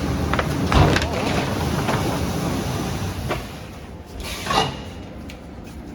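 Flexo printing machine for paper cup fans running, a steady mechanical noise with irregular clicks and knocks. The level drops about three and a half seconds in, and there is a brief swish about a second later.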